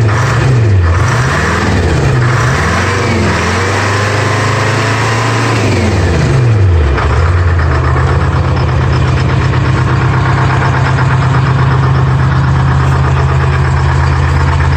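Detroit Diesel 4-53 two-stroke four-cylinder diesel of a Clark skidder running shortly after a cold start. It is revved down and up several times in the first half, then settles to a steady, even run.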